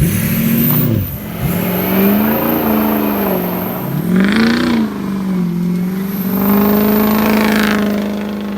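Diesel pickup engine being revved through its exhaust. The pitch dips about a second in, swings up and down a few times, then holds high for a couple of seconds before easing off near the end.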